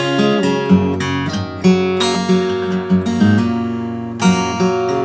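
Acoustic guitar strummed, a chord about once a second with the strings ringing on between strokes.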